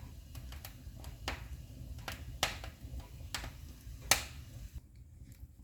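Wood fire crackling in a fireplace as it catches: scattered sharp pops at uneven intervals over a low rumble, the loudest about four seconds in.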